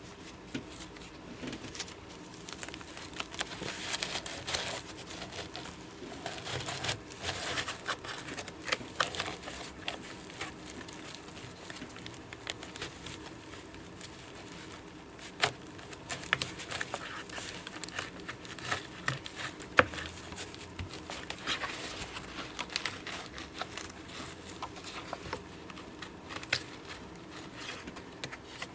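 Hands handling a humidifier's filter and parts: irregular rustling and crinkling with many scattered small clicks and knocks.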